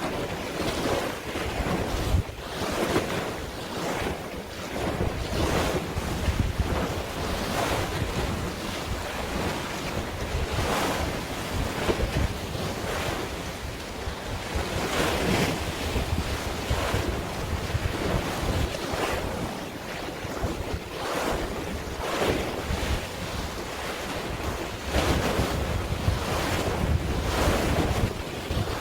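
Sea waves splashing in irregular surges, with wind buffeting the microphone as a low rumble.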